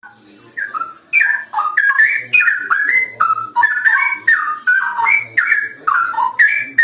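Straw-headed bulbul (cucak rowo) singing loudly: a long unbroken stream of short, rich whistled notes that jump up and down in pitch.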